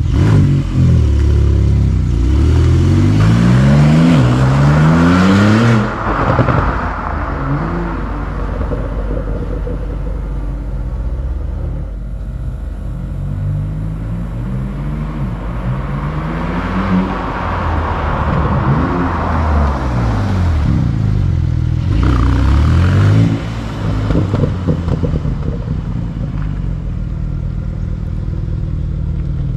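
Porsche 911 Turbo S (992) twin-turbo flat-six breathing through a titanium sport exhaust with an X-pipe, revved while stationary. A long rev climbs for several seconds and falls back at about six seconds in, shorter revs follow around the middle and a quick blip a few seconds before the end, and it settles back to idle between and after them.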